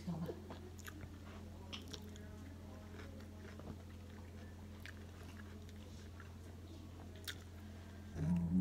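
A person chewing food with the mouth closed: soft, irregular crunching clicks over a steady low hum.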